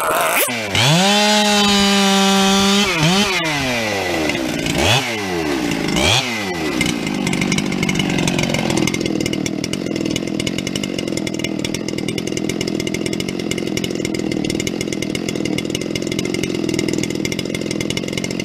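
Ported Dolmar 7300 two-stroke chainsaw revved to a high, steady full-throttle pitch for about two seconds. It then gets three quick blips of the throttle and settles to a steady, lower-pitched run.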